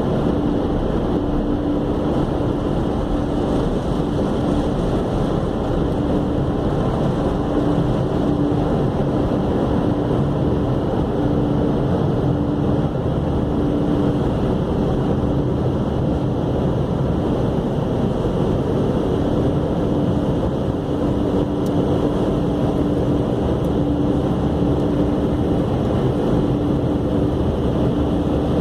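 Steady machine running noise with a low, steady hum that fades in and out.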